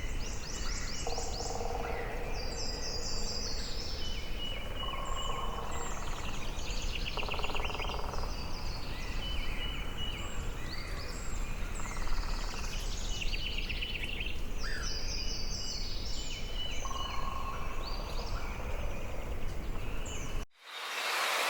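Rainforest ambience of several birds calling at once, with fast high trills, held whistled notes and lower hooting phrases over a steady background hiss. Near the end it cuts off suddenly and gives way to a steady hiss of rain.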